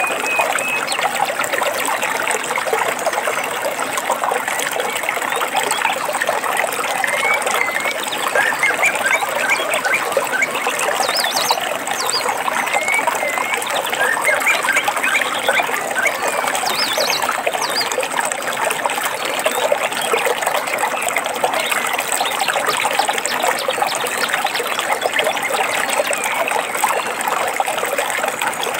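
A stream trickling and burbling steadily, with scattered short bird chirps, most of them around the middle.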